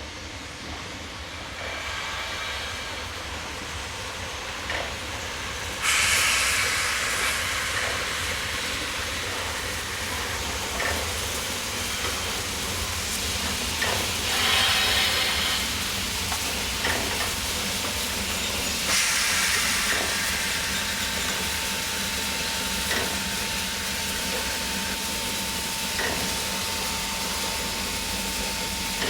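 Steam locomotive hissing steam, with a sudden louder release of steam about six seconds in and further surges of hiss around the middle. Soft knocks recur every few seconds underneath.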